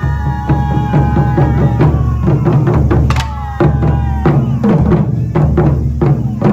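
Japanese taiko drum ensemble playing fast, dense strokes with deep drum hits underneath. Twice a long high-pitched note is held over the drumming, at the start and around three seconds in.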